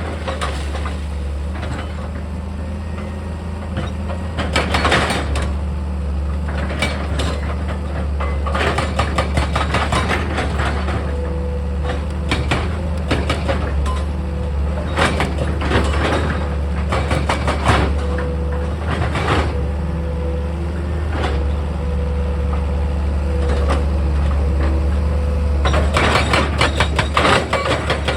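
Heavy diesel engine of an excavator running steadily, with repeated bouts of clattering and scraping as earth and rock are worked.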